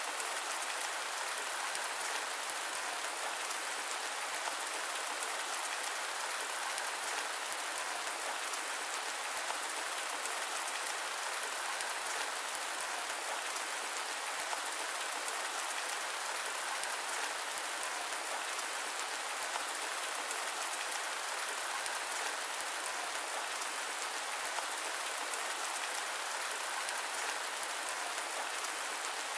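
Steady rain falling on a surface, a constant hiss of many small drops with no thunder, perhaps blended with white noise.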